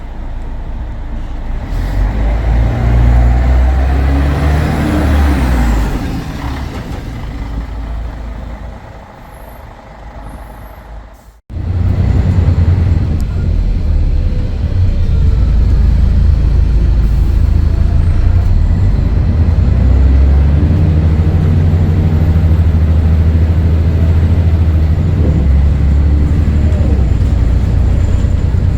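Scania DSC11 11-litre straight-six diesel in a Scania L113CRL bus, running loud under way. It swells, then falls away over several seconds, cuts off abruptly, and comes back running loud and steady.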